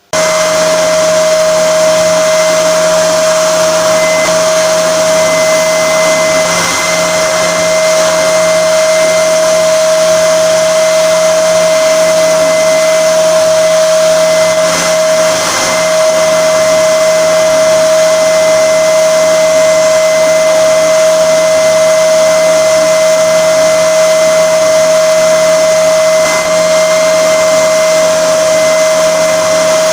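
Spindle sander running steadily with a constant motor whine and hiss as the outside edge of a wooden guitar body is sanded on it.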